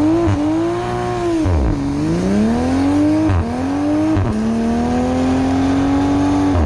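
A car engine revved hard through a loud exhaust for an exhaust sound competition. The revs climb high, dip sharply and climb again, dip briefly twice more, then hold steady near the top until they fall away at the end.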